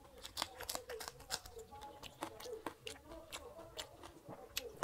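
A person chewing and smacking his lips, with many sharp wet clicks, while eating rice and hilsa fish curry by hand and biting into a green chili.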